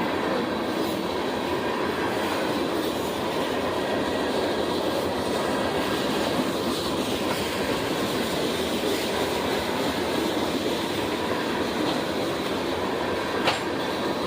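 Railroad train rolling past: a steady rumble of wheels on the rails, with one sharp click near the end.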